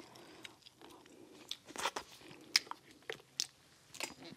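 Close-miked chewing of crawfish meat, quiet, with a handful of sharp wet clicks and smacks.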